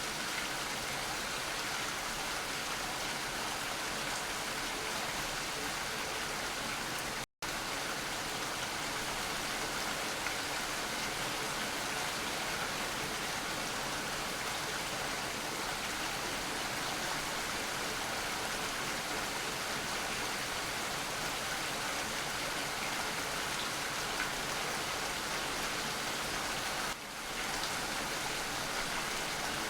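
Steady, even rainfall on surfaces. It cuts out for an instant about seven seconds in and dips briefly near the end.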